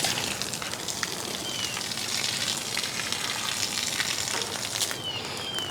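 Water splashing into a bird bath as it is refilled, a steady hiss. A bird gives a short falling chirp about a second and a half in and again near the end.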